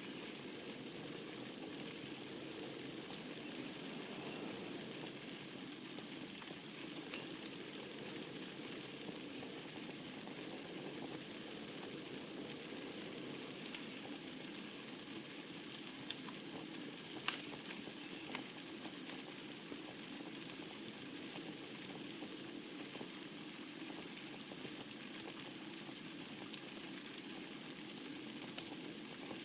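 Wood fire burning in a fireplace: a steady low rush of flames with sparse sharp crackles and pops, the loudest a little past halfway.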